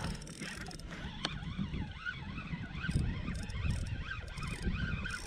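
Fishing reel being cranked under load while playing a hooked fish, its gears giving a whine that rises and falls with each turn of the handle over a low rumble of wind and water.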